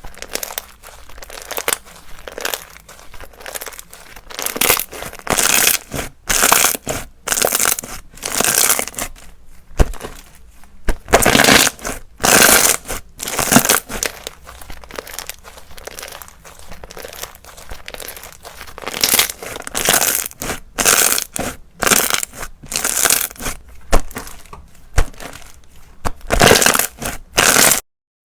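Slime being pressed, squished and stretched by hand: a run of irregular crackling, squelching sounds, one or two every second with brief pauses between.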